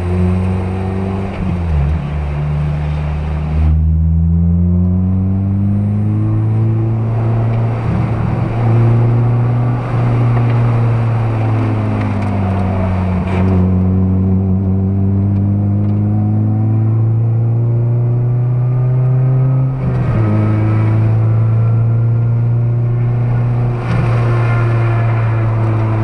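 Onboard sound of a 2008 Honda Civic Type R FD2's K20A four-cylinder engine, fitted with an aftermarket intake, header and 3-inch full exhaust, heard from inside the cabin while lapping a track. The engine note climbs under acceleration and falls away when braking and shifting for corners, with a sharp drop in pitch about three quarters of the way through.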